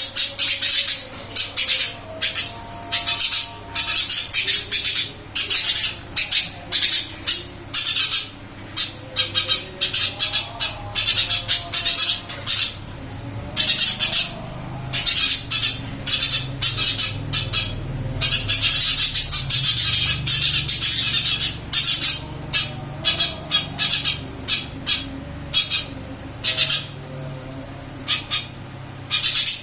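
Caged Eurasian tree sparrow chirping busily, a fast, nearly unbroken run of short, sharp, high chirps with only brief pauses. Its steady chirping is the sign of a bird that has settled well into its new cage.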